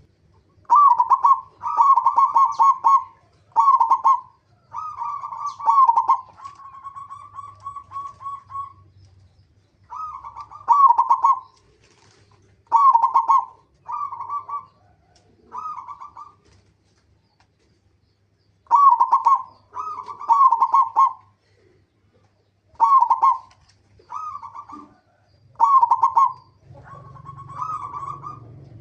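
Zebra doves (perkutut) cooing in short, quick coo phrases, repeated again and again with brief pauses. A longer trilled coo comes a few seconds in, and there is a short silent gap past the middle.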